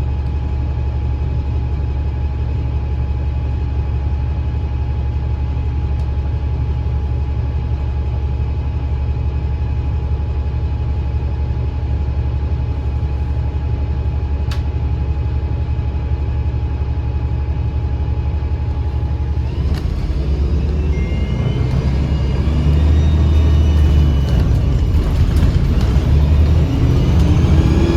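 2009 Gillig BRT 40-foot diesel transit bus with a Voith transmission, idling with a steady low rumble and a constant whine. About twenty seconds in it pulls away and accelerates: the engine grows louder and rising whistling tones come up over it, the strange whistle this bus makes under acceleration.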